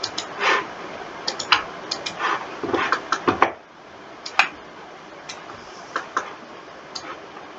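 Irregular clicking of a computer mouse and keyboard during 3D animation work. The clicks come thick and fast for the first three and a half seconds, then sparse single clicks follow.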